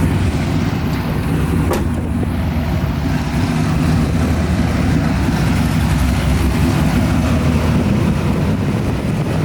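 Car engine running steadily, a deep even rumble without revving, with a single sharp click about two seconds in.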